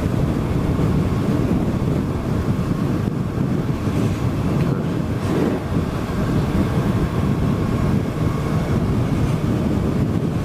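Wind rushing over a helmet microphone, with the 2018 Suzuki GSX-S1000's inline-four engine running steadily underneath as the motorcycle is ridden.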